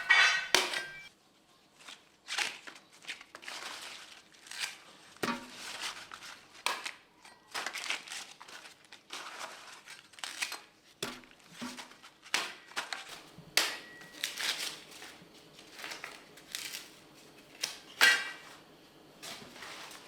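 Dry corn husks and leaves crunching and rustling as they are handled, in short irregular bursts about once or twice a second. The loudest are right at the start and again near the end.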